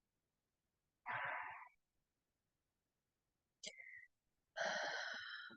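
A person breathing out audibly three times, like sighs; the last breath is the longest.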